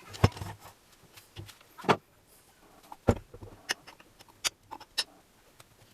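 Scattered sharp clicks and knocks of hand tools and metal parts being handled, about six over several seconds, the loudest about two seconds in.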